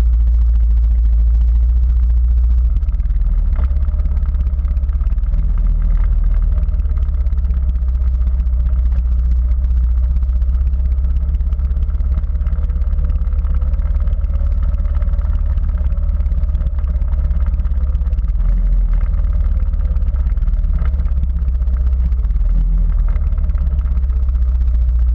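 Quad bike engine running steadily through a ride, under a heavy low rumble, with a faint engine tone wavering up and down in pitch.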